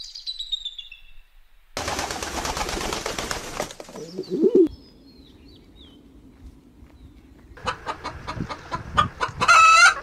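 A run of separate bird sounds: a high call falling in pitch at the start, a two-second rush of noise, and a short low call about four and a half seconds in. Then domestic chickens clucking, with a loud squawk near the end.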